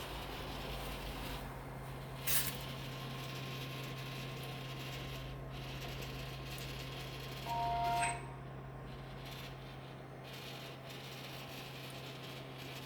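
CW-5200 water chiller running with a steady low hum and an unwanted rattle. A sharp click comes a little over two seconds in, and a brief two-note tone sounds about eight seconds in.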